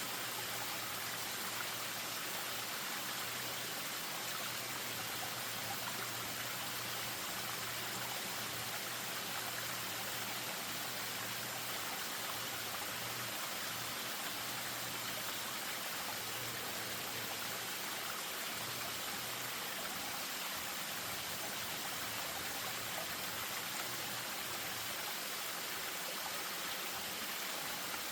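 Spring-fed stream running over a small waterfall: a steady rush of moving water that does not change.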